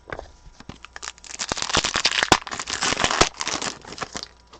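Foil trading-card pack wrapper being torn open and crinkled in the hands, a dense crackle with sharp snaps lasting about three seconds.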